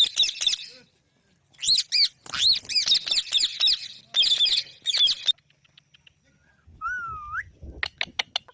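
Indian ringneck parakeets calling: bursts of rapid, high-pitched chirping screeches. About seven seconds in comes a short rising whistle, followed by a few sharp clicks near the end.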